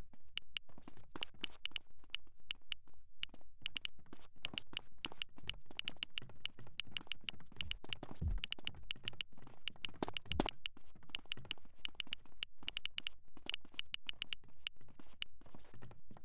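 A steady run of sharp taps or knocks, about four a second, keeping on without a break.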